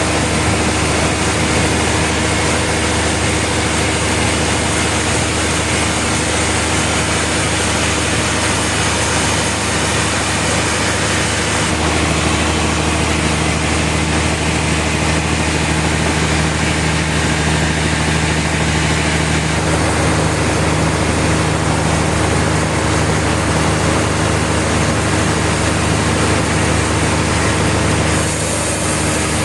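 Sawmill machinery running steadily: an engine or motor hum under a dense mechanical noise, its tone shifting a few times.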